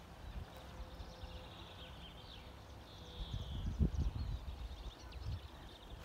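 Faint birdsong from wetland birds: scattered chirps and a short trill, over a low, uneven outdoor rumble.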